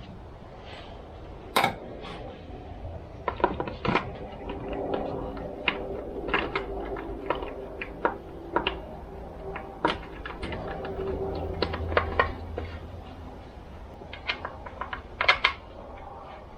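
Irregular clicks, taps and clinks of hand tools and small metal and plastic chainsaw parts being handled during reassembly, over a faint steady hum.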